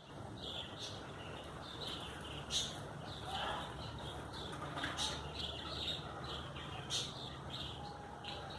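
Birds chirping, short high calls repeating several times a second, with a few sharp clicks and a faint low hum underneath.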